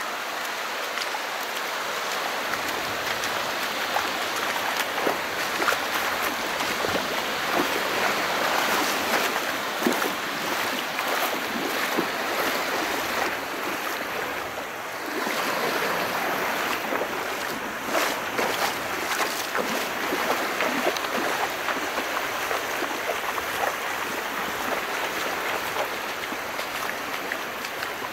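Calm sea: small waves washing in and drawing back, a steady wash of water full of fine crackling and fizzing. It swells and eases, with a brief lull about halfway through.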